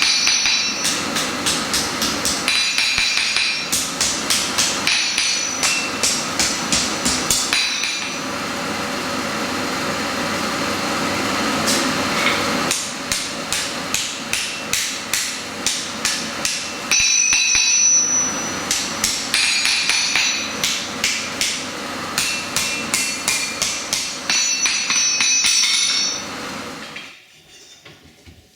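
Hand hammer striking hot steel on an anvil, forging a blade from harrow-tine steel: runs of blows at about three a second, each with a bright metallic ring. The hammering breaks off for a few seconds partway through, leaving a steady rushing noise, and stops near the end.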